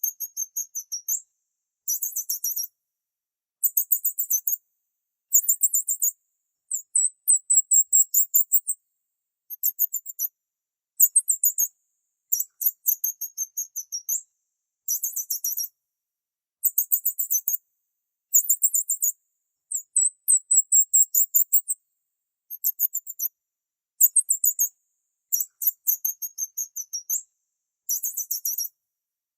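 High-pitched bird chirping: short runs of rapid chirps, each about a second long, repeating every second or two with silent gaps between.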